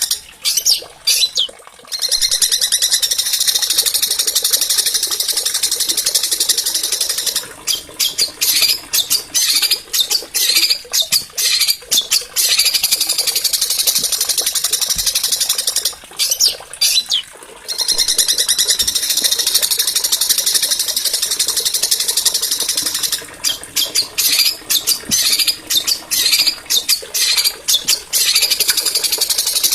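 Small songbird singing a loud, fast, high-pitched run of trills and chattering phrases, almost without a break. It pauses briefly about a second in and again about halfway through.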